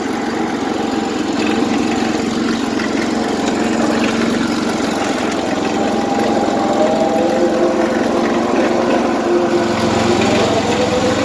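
Small tractor engine running steadily, its pitch shifting slightly a few times.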